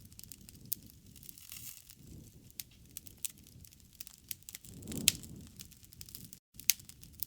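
Wood campfire burning, crackling with irregular sharp pops and snaps of the firewood over a low noisy rush, swelling louder about five seconds in.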